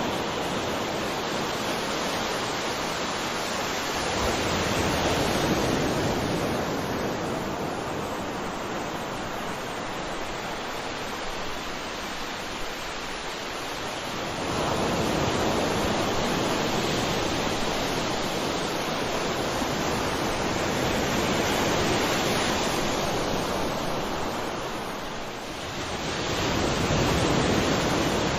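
Ocean waves breaking on a shore: a continuous wash of surf that swells as each wave comes in, several seconds apart, and ebbs between them.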